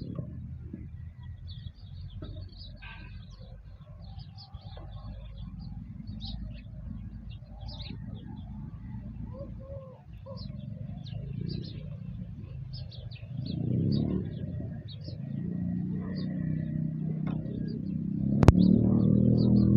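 Small birds chirping in short, scattered calls over a steady low rumble. The rumble grows louder over the last few seconds, and a single sharp click comes about a second before the end.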